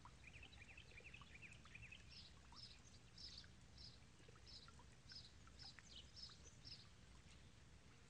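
Faint birdsong: a quick run of twittering chirps for about two seconds, then a high note repeated about twice a second for several seconds, over a steady low background rush.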